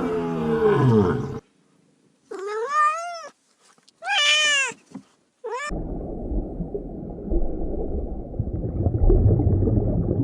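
Domestic cat meowing: after a falling call at the start come two drawn-out meows that rise and fall in pitch and a short one. Then a low, rough rumbling noise fills the rest.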